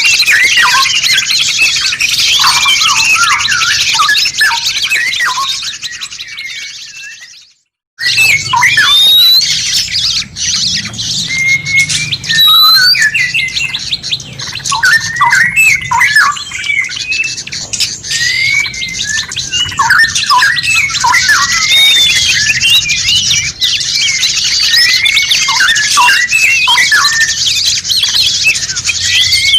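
Dense chatter of songbird calls, many quick chirps and whistles rising and falling in pitch. It fades out about six to seven seconds in, falls silent for a moment, then a new run of busy bird calls starts abruptly and continues.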